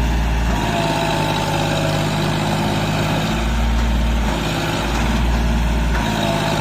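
Tractor diesel engine running steadily, with a deep rumble that swells and drops back a few times.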